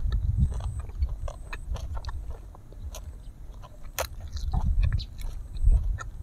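Close-miked chewing of grilled honey duck meat: a steady run of small mouth clicks over low jaw thumps, with a sharper click from a fresh bite about four seconds in.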